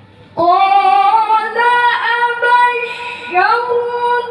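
Quran recitation in the melodic tilawah style by a high-pitched solo voice. The reciter begins "qāla" about half a second in and draws it out in long, ornamented notes that slide between pitches.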